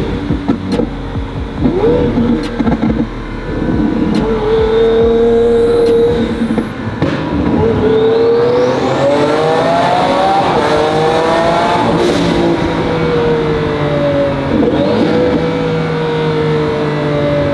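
Twin-turbocharged Lamborghini Aventador S Roadster V12 accelerating hard, its pitch climbing steeply for several seconds. It breaks off sharply at a gear change about twelve seconds in, then falls away slowly as the car eases off.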